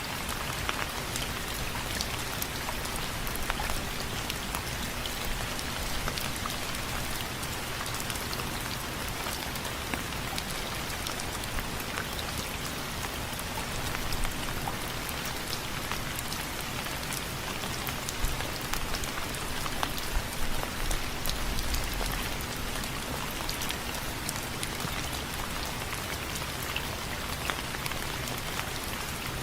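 Steady rain on window frames: an even hiss of rainfall with many distinct drop ticks on a hard surface, a few louder patters of drops now and then.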